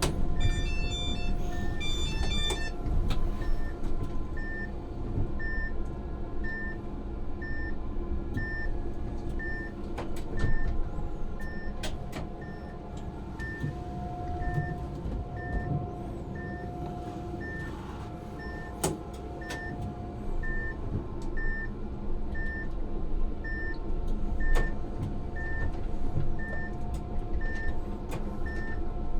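Tram heard from the driver's cab: a low running rumble, with a short electronic beep repeating about once a second and a brief multi-note electronic chime near the start.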